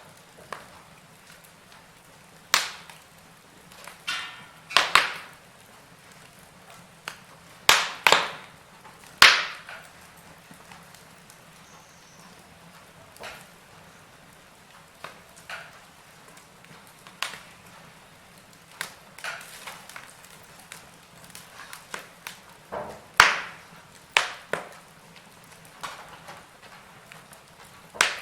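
Wood fire crackling in a fireplace: irregular sharp pops and snaps over a faint steady hiss, loudest in a cluster about eight seconds in and again near twenty-three seconds.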